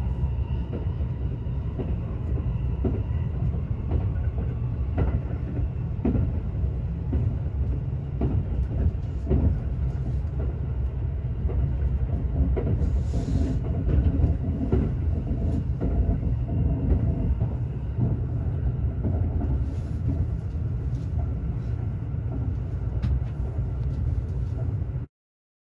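Ride inside a moving express train carriage: a steady low rumble of wheels on the track, with scattered clicks and knocks from the rails. It cuts off suddenly near the end.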